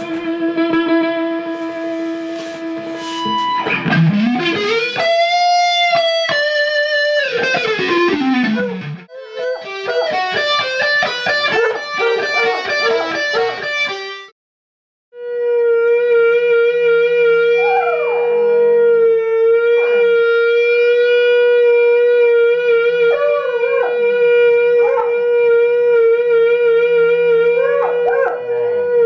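Instrumental rock intro: electric guitar through effects, with notes sliding up and down in pitch. After a short break about 14 seconds in, one long steady held note continues with bending, gliding notes over it.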